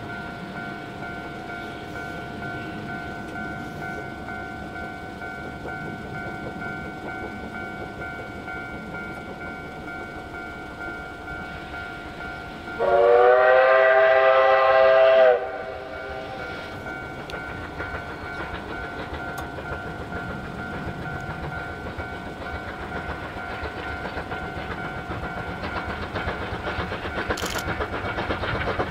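Moka Railway train whistle: one long blast of about two and a half seconds about halfway through, over a faint steady background rumble. The train's running noise grows louder near the end as it draws closer.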